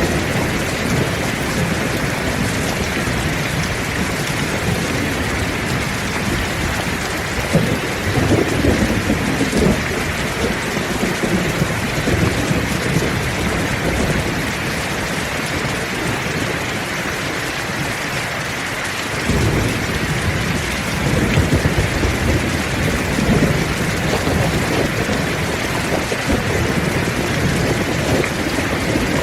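Heavy rain falling steadily, with rolling thunder rumbling low underneath, swelling about eight seconds in and again from about two-thirds of the way through.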